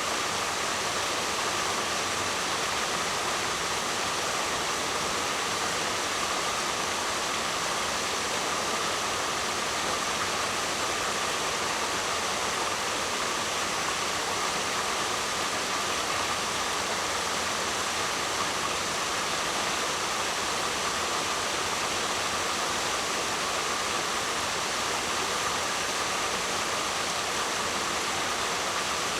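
Waterfall: a steady, unbroken rush of falling water with no swells or pauses.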